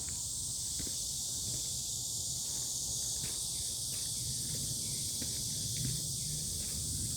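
Steady, high-pitched insect chorus droning without a break, over a low rumble and a few faint, scattered light ticks.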